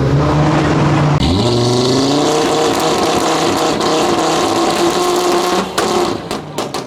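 Performance car engine revving hard: the revs climb about a second in and are held high for several seconds, then a quick run of sharp cracks near the end, like exhaust pops.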